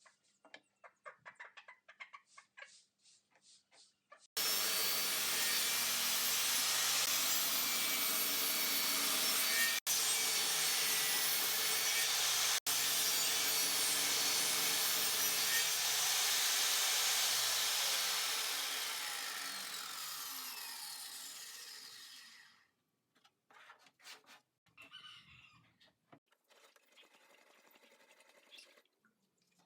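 A power tool cuts plywood, starting suddenly about four seconds in and running loudly for about fourteen seconds. It then winds down with falling pitch and stops. Quieter knocks and scraping of wood follow.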